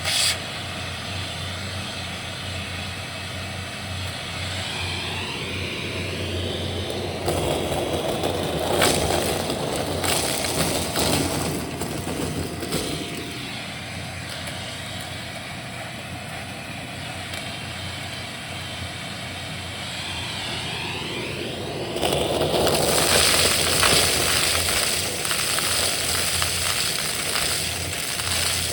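Vacuum cleaner running steadily with crackling as it sucks up crunchy debris; the suction noise swells louder for several seconds a third of the way in and again near the end.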